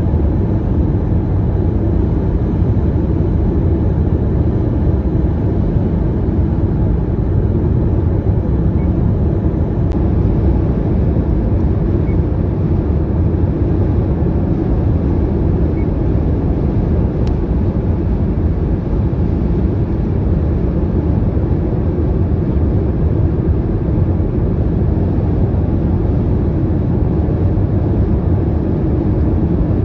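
Large hailstones and heavy rain drumming on a car in a severe thunderstorm, as a loud, steady, dense clatter.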